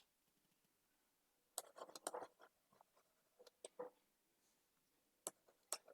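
Near silence, broken by a few faint, short clicks and scratches about one and a half, two, three and a half, and five seconds in.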